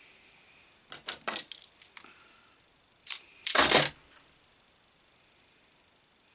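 Handling noises at a workbench: a quick run of small clicks about a second in, then a short, louder clatter about three and a half seconds in.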